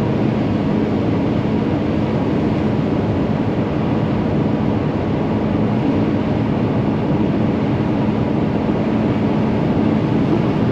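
Volkswagen Vanagon driving at steady speed: engine and road noise with a constant hum.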